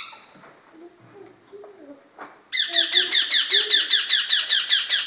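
Indian ringneck parakeet chicks calling in a fast, even run of sharp, squeaky squawks, about six a second, starting about halfway in.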